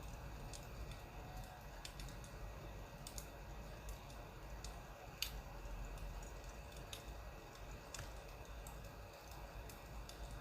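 Wood fire crackling: sparse, irregular sharp pops, one louder about five seconds in, over a faint low rumble.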